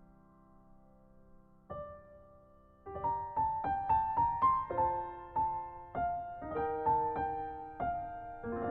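Soft background piano music: a held chord dies away, a single note sounds just under two seconds in, then a slow melody of single struck notes over chords begins about three seconds in and settles on a held chord near the end.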